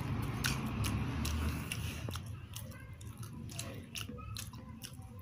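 A person chewing a mouthful of dry beaten rice, with irregular crisp crunching clicks.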